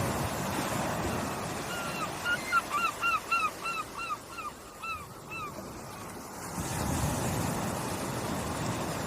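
Steady wash of waves with a bird giving a run of about a dozen short, clear, repeated calls, about three a second, from about two seconds in until about five and a half seconds.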